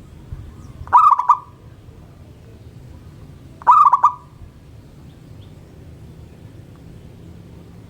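Zebra dove (perkutut) cooing: two short, rapid pulsed phrases about three seconds apart, over a steady low background rumble.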